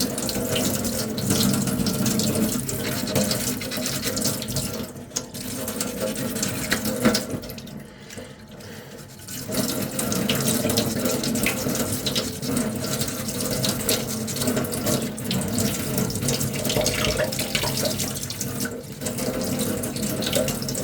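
Sandpaper being rubbed by hand over a small putty-coated armour piece: a continuous scratchy hiss of sanding strokes, with a short pause about eight seconds in.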